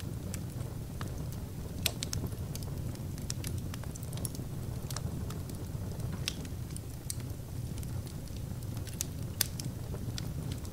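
Wood fire burning in a fireplace, crackling: a steady low rumble of the flames with irregular sharp pops and snaps, two of them louder, one about two seconds in and one near the end.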